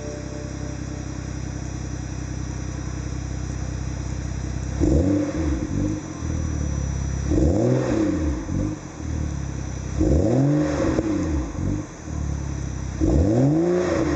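BMW X3 35i's turbocharged inline-six idling through a Super Sprint aftermarket exhaust, then blipped four times, each rev rising and falling back to idle about every two and a half seconds.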